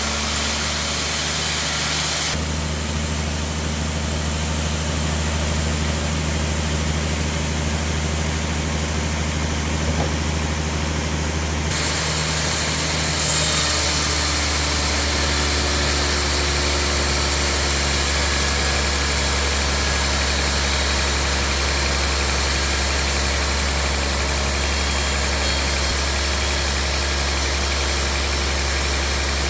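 Sawmill bandsaw machinery running with a steady low drone and hiss, shifting in tone abruptly about two seconds in and again around twelve seconds.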